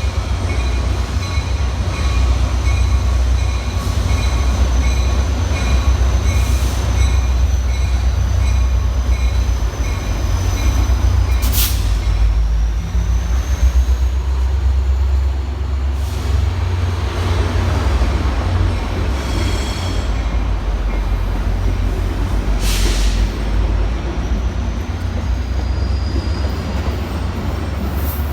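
Train in motion: a steady low rumble with faint high-pitched wheel squeal, and two short sharp clanks, about 12 and 23 seconds in.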